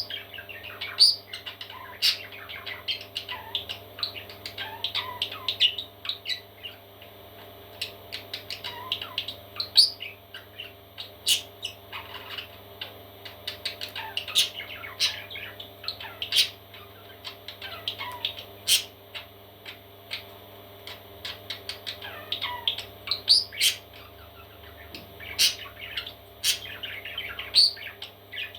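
Parrot chicks chirping and squeaking in many short, rapid calls, with occasional sharp clicks, over a steady low hum.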